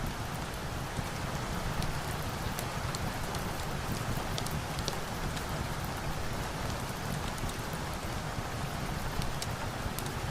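Steady rain falling, an even hiss with a low rumble beneath it, with scattered sharp crackles from a wood fire popping several times a second.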